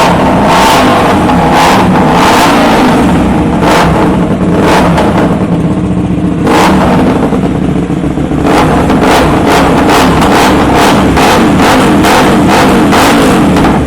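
Hyosung GT250R's 250 cc V-twin engine, fitted with a universal GP-style exhaust muffler, being revved hard: repeated throttle blips over a loud idle, coming faster, about two a second, in the second half.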